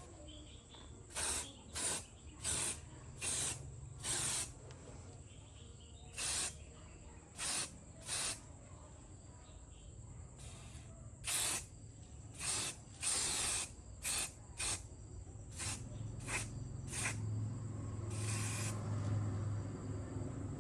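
Pressurised spray hissing in short bursts, about eighteen of them, unevenly spaced. A low hum comes up in the last few seconds.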